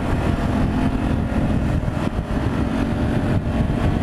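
Ducati Multistrada 950's L-twin engine running steadily under way, a low even drone with a rush of noise over it.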